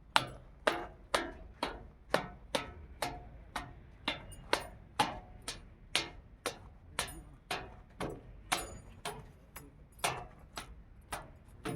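A steady series of sharp knocks or ticks, evenly spaced at about two a second.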